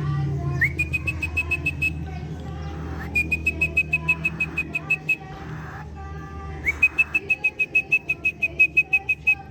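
Cockatiel chick calling in three runs of rapid, high whistled chirps, about eight a second. Each run starts with a short rising note, over a steady low hum.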